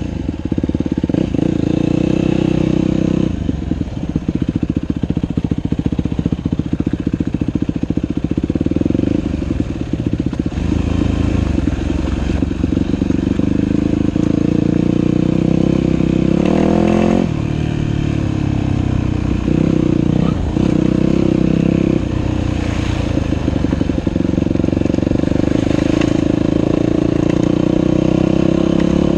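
Dirt bike engine running while riding, the revs falling and climbing again several times as the throttle opens and closes.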